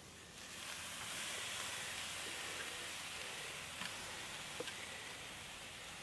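Food sizzling on a barbecue grill: a steady hiss that sets in just after the start, with a few faint pops.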